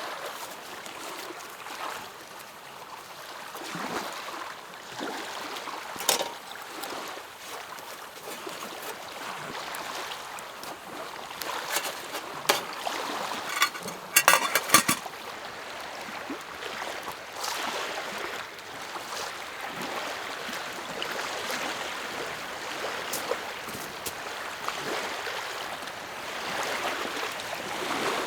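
Small lake waves lapping at the shore in a steady wash, with a few sharp clicks or knocks, several of them close together about halfway through.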